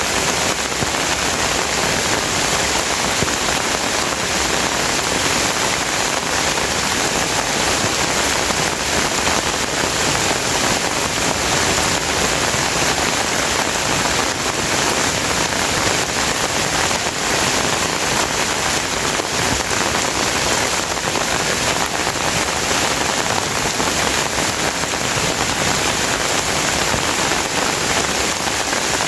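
Steady, heavy rain falling on surfaces, an even, unbroken hiss of dense drops.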